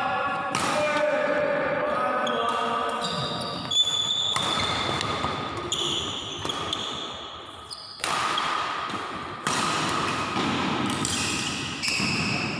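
Badminton rally in a sports hall: several sharp smacks of rackets hitting the shuttlecock, mixed with short high squeaks of shoes on the court and players' voices.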